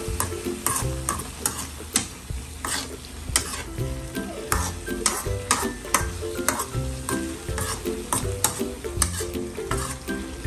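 A metal utensil scraping and clattering against an aluminium wok in quick, irregular strokes as strips of bamboo shoot and pork are stir-fried, with the sizzle of frying underneath. Background music plays along with it.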